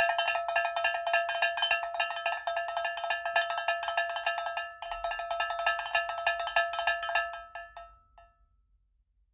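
Fast, steady metallic strikes, many a second, each with the same bright ringing tone. They break off for an instant about five seconds in, start again, and fade out near the end.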